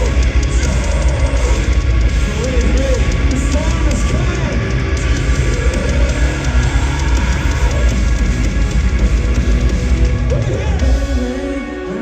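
Metalcore band playing live through a concert PA, with distorted guitars, bass and drums and a heavy low end. Near the end the drums and bass drop out, leaving thinner sustained notes.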